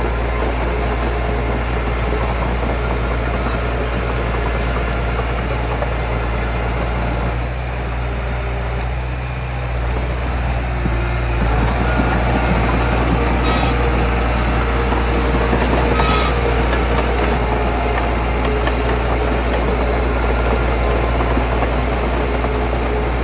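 Crawler bulldozer's diesel engine running steadily; it eases off briefly about eight seconds in, then runs a little louder again.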